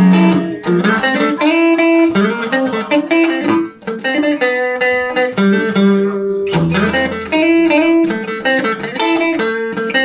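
Electric guitar, a Telecaster through a Roland JC-120 amp, playing an instrumental passage of picked notes and chords between sung lines. The playing drops out briefly a little under four seconds in.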